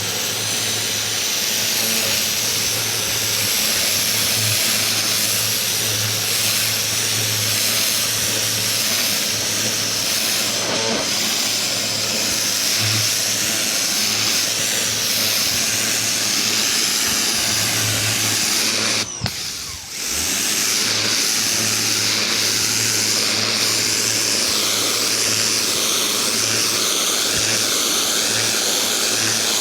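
Ryobi 2000 PSI electric pressure washer spraying a wooden fence: the motor and pump hum steadily under the loud hiss of the water jet hitting the boards. About two-thirds of the way through, the spray stops for about a second as the trigger is let go, then starts again.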